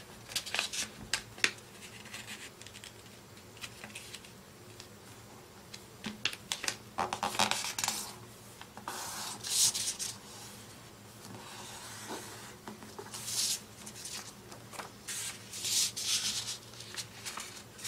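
A sheet of printer paper being folded by hand: rustles and small clicks, and several longer rubbing swishes as the fold is pressed into a crease.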